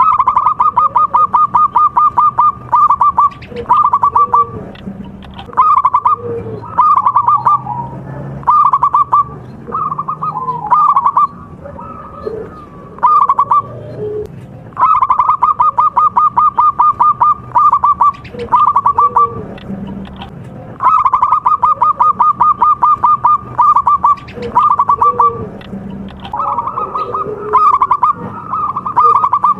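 Zebra doves (perkutut) cooing in phrases of rapid trilled notes, about ten a second. Longer runs of trilling alternate with shorter bursts throughout.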